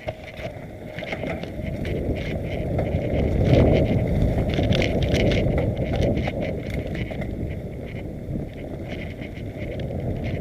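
Mountain bike descending a rough trail: wind rumbling on the microphone over a steady clatter and rattling from the bike running over rocks and roots. It gets louder about a second in and is loudest around three to four seconds in.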